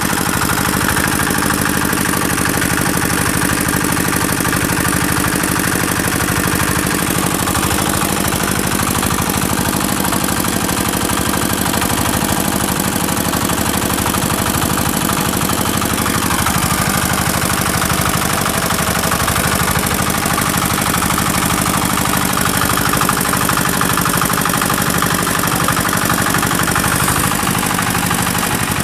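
Reconditioned R170A 4-horsepower single-cylinder diesel engine running steadily at an even speed, its firing pulses loud and regular.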